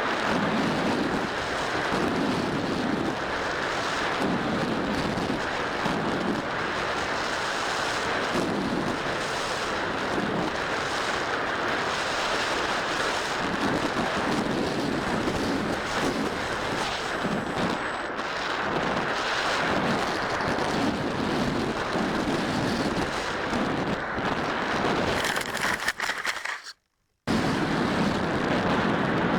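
Wind buffeting the microphone: a steady rushing noise that swells and eases in gusts, cutting out completely for about half a second near the end.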